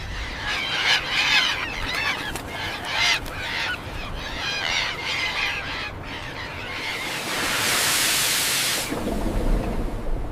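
Birds calling several times over about six seconds, then an even rushing hiss for about two seconds near the end.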